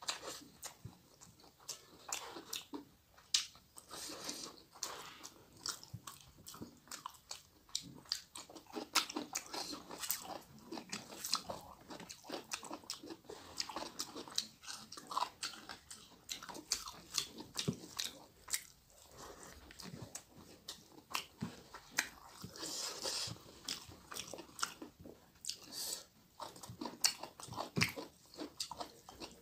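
Close-miked mouth sounds of a person eating rice and fish curry by hand: chewing, lip-smacking and biting, with many sharp irregular clicks.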